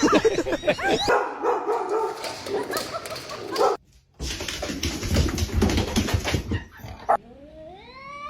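Dog barking and whimpering, with a short break about four seconds in; near the end a long call rises in pitch.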